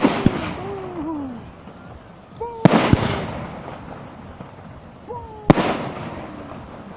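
Aerial fireworks shells bursting: three loud bangs about two and a half seconds apart, the first two each doubled by a quick second bang. Each bang trails off in a fading crackle.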